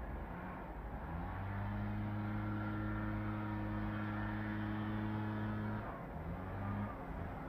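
A motor vehicle's engine: its pitch climbs in short steps, holds steady for several seconds, then drops and climbs again as it changes speed.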